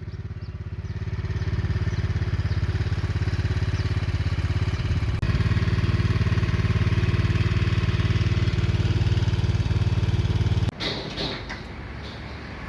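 Motorcycle engine running steadily while being ridden, its hum building over the first couple of seconds and then holding. Near the end it gives way to a quieter stretch with light clatter.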